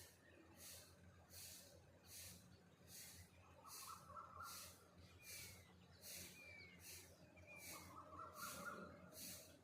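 Faint birdsong: two short warbling phrases and three quick downward chirps a second apart, over a high hiss that pulses evenly about once every three quarters of a second.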